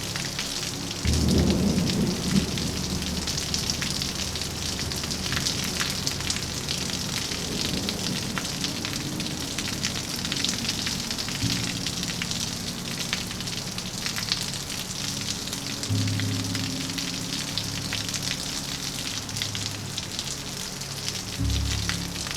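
Steady rain falling, a dense even patter. Low held tones underneath change a few times.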